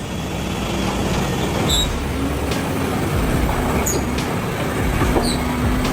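Heavy vehicle running with a steady low rumble, with a few short high-pitched squeaks over it.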